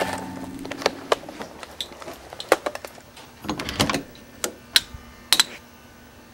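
A series of irregular sharp clicks and knocks, about eight over several seconds, with a longer, noisier rattle about three and a half seconds in; a held note of music fades out near the start.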